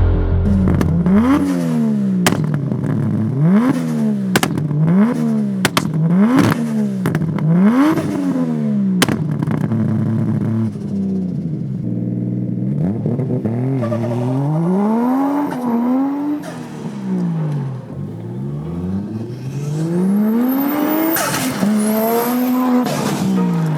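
Nissan 200SX drift car's 2.5-litre engine being revved: quick blips of the throttle, about one every second, for the first half, then slower, longer revs. Sharp cracks come between some blips, and a high thin whistle rises with the later revs.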